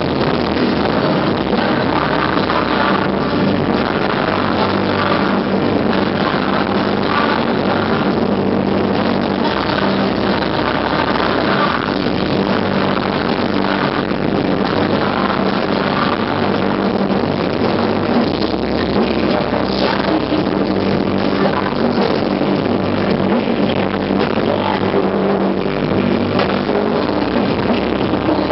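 Live concert music: a band playing a song on stage, loud and dense without a break.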